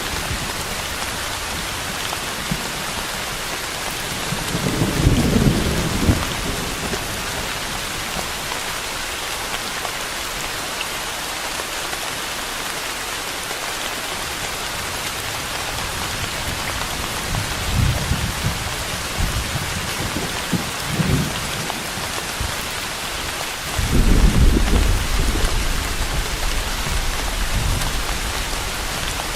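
Steady heavy rain falling, with rolls of low thunder rumbling through it: a short one about five seconds in, a few small ones later, and the longest and loudest about three-quarters of the way through.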